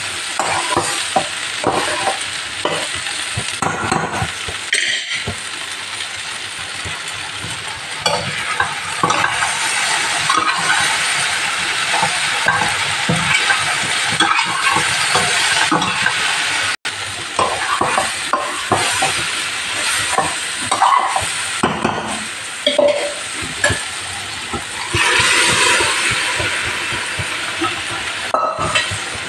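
Chickpea masala and chopped okra sizzling as they fry in pans on a stove, with a metal spoon and spatula scraping and clinking against the pans as they are stirred. The sound cuts out for an instant just past the middle.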